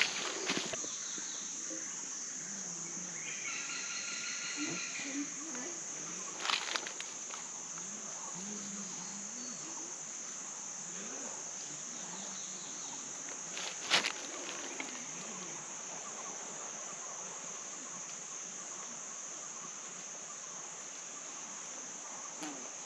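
Steady high-pitched drone of rainforest insects. A few sharp clicks or knocks cut through it, the loudest about two-thirds of the way in.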